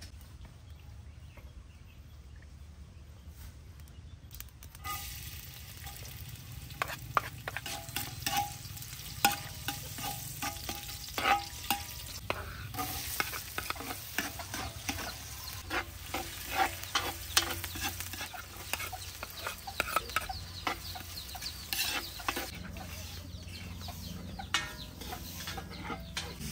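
Chopped red onions sizzling in hot oil in a large aluminium wok, with a metal ladle scraping and clinking against the pan as they are stirred. The sizzle and stirring start about five seconds in.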